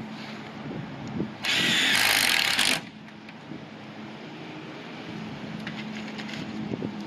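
A power drill runs a screw into the steel flashing of a metal roof in a single burst of about a second and a half. A low steady hum lies underneath.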